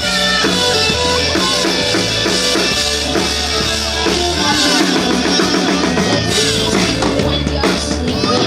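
Live band playing loud rock music, with a steady drum-kit beat and electric guitar.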